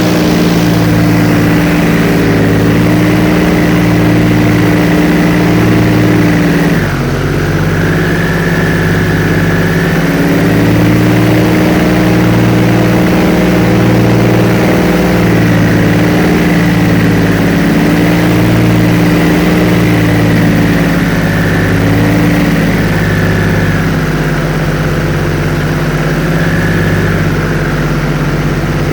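Airboat engine and propeller running steadily, a loud even drone with a slow regular pulsing in its low note. The engine note drops slightly about seven seconds in, then holds steady.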